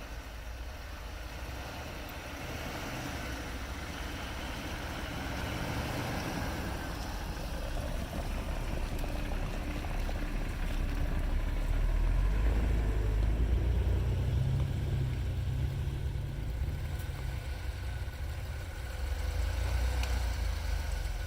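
Jeep engine running at low speed while crawling off-road, a steady low rumble that gets louder about halfway through, eases briefly, then rises again near the end.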